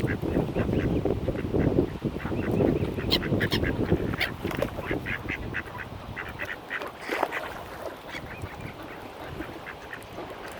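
Mallard ducks quacking in many short, repeated calls over a low rushing noise, which is louder in the first few seconds.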